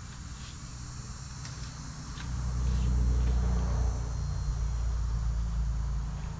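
Steady high insect trilling, with faint ticks, over a low rumble that swells about two seconds in and eases off near the end.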